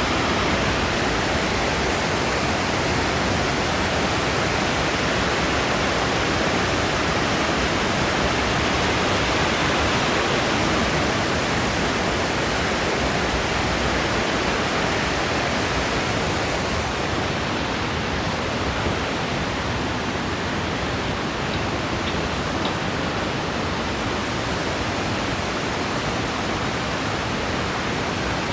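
Waterfall rushing steadily, a loud, even wash of falling water that softens slightly in its highs about two-thirds of the way through.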